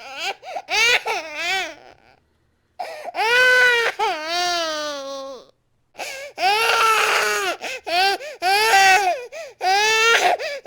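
Infant crying hard: a short sob, a long wail that falls in pitch, then a run of short, rapid cries, with a brief break for breath after the first second or two.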